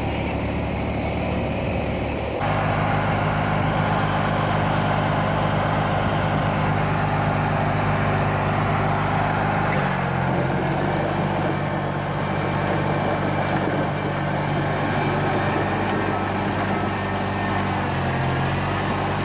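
Riding garden tractor engine running steadily, its note changing about two seconds in and again about ten seconds in.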